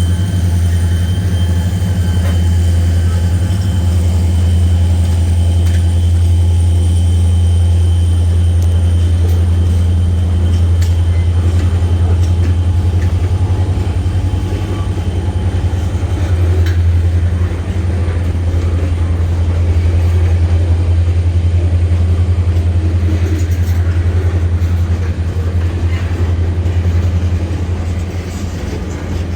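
EMD SD40-2 diesel locomotives running, a loud, steady low rumble.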